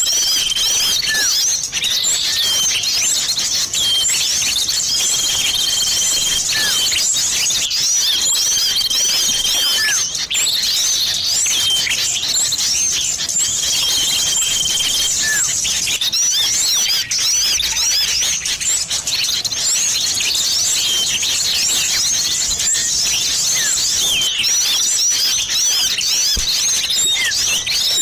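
A dense, busy chorus of many small birds chirping rapidly, a bird-lure mix of sirtu and cipoh (common iora) calls. Long steady whistles, each held about a second, recur several times in the first half.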